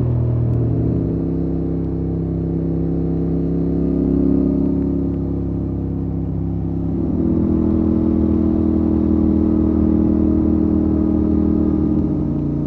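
Motorcycle engine running steadily while riding along a road, its pitch shifting a little about seven seconds in.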